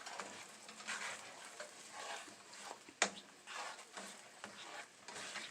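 Thick banana syrup sauce simmering in a pan, bubbling and softly popping in uneven crackles, with one sharp click about three seconds in.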